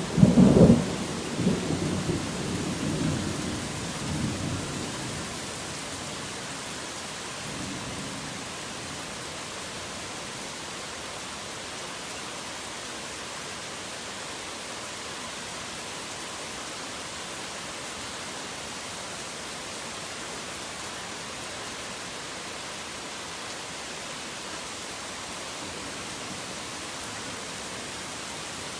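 A thunder clap rumbling loudly just after the start and rolling away over about five seconds, with a faint second rumble a few seconds later, over heavy rain. Afterwards only the steady, even hiss of the rain remains.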